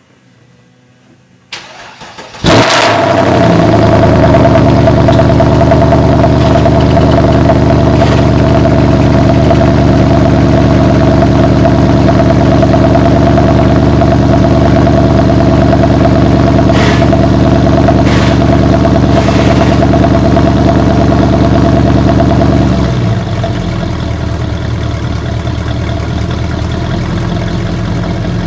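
Mercedes-AMG Black Series engine cold-started: the starter cranks briefly, and the engine catches about two and a half seconds in with a sudden loud bark. It settles into a loud, fast, steady cold-start high idle, then about twenty seconds later drops to a noticeably quieter, lower idle as the fast-idle phase ends.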